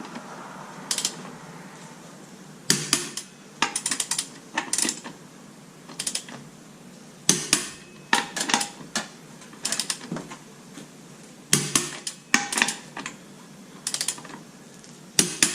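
Metal tools clinking and knocking against metal in irregular clusters of sharp clicks, a burst every second or two.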